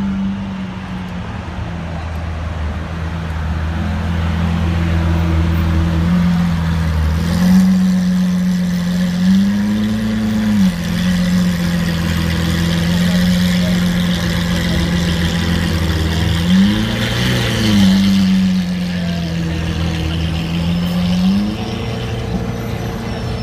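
Lamborghini Aventador's V12 engine idling steadily, with three short throttle blips that briefly raise its pitch.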